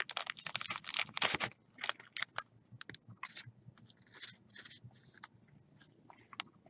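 Trading cards and their plastic holders being handled: a run of short clicks and rustles, dense for the first second and a half, then sparser and quieter.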